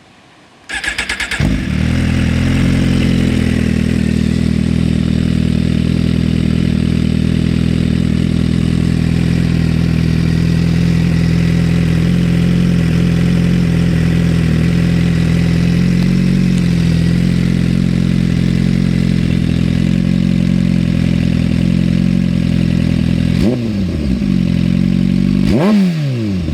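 2018 Suzuki GSX-R1000R inline-four through an Akrapovič slip-on GP-type exhaust, starting after a brief crank and then idling steadily and loudly. Near the end it is blipped twice, the pitch rising and falling quickly each time.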